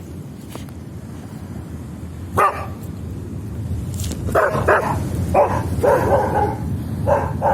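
A dog barking, about six short barks that start a couple of seconds in and come in a loose run toward the end, over a steady low rumble.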